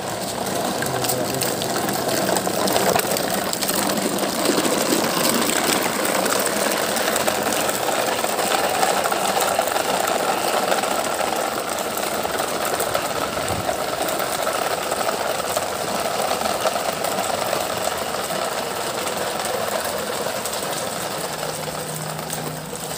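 Small electric motor of a battery-powered toy construction vehicle whirring steadily, easing off slightly near the end.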